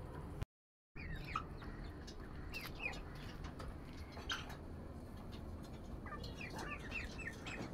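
Small birds chirping in short, falling notes, with a quick run of five or six chirps near the end. The sound cuts out completely for about half a second near the start.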